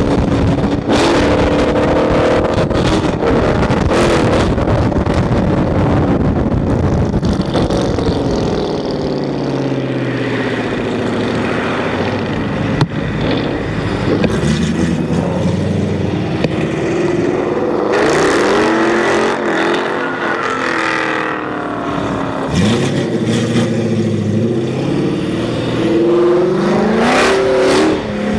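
Car engines running and revving, their pitch rising and falling again and again.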